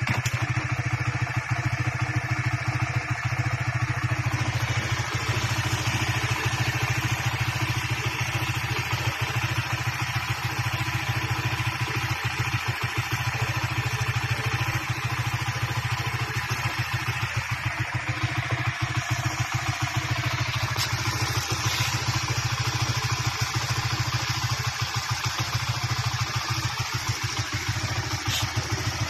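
An engine idling steadily, with a fast, even pulse and no change in speed.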